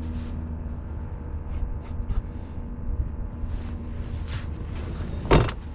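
A steady low hum, with one loud short knock about five seconds in.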